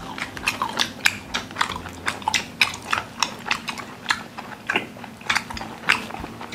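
People chewing and biting food, heard up close as quick, irregular wet smacks and clicks, several a second.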